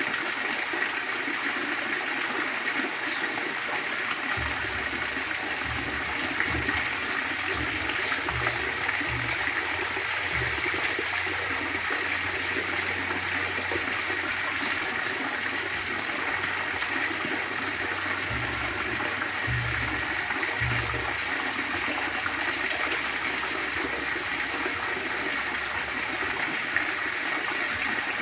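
Waterfall: a steady rush of falling water, hissy and even. Low rumbles come and go through the first two-thirds.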